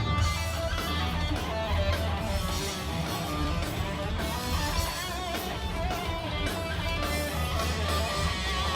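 Rock music played by a band, led by strummed electric guitar over a heavy bass line, running steadily.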